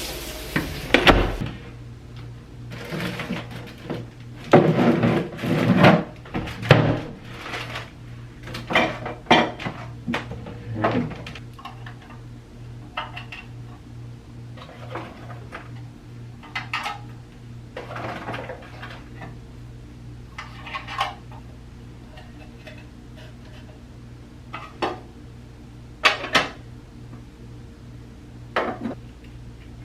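Household clatter of dishes being handled and cupboard or drawer doors knocking, as a run of separate clinks and knocks that are busiest in the first dozen seconds and then thin out, over a steady low hum.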